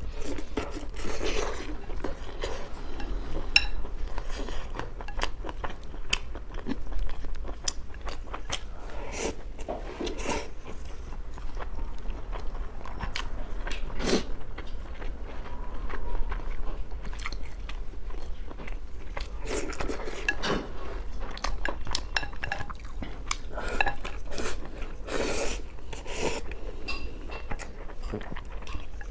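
Close-miked eating: chewing and biting through braised pork over rice in irregular mouthfuls, with now and then a clink of a utensil against the dish.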